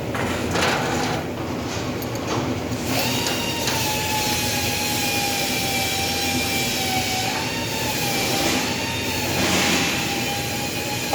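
Metal-shop machinery: a few sharp knocks, then, about three seconds in, a steady machine whine with a slightly wavering pitch sets in over continuous noise.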